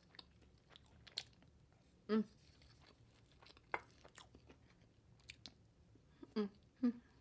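Close-miked chewing of a mouthful of chicken curry: soft wet clicks and smacks of the mouth. There are brief voiced hums about two seconds in and twice near the end.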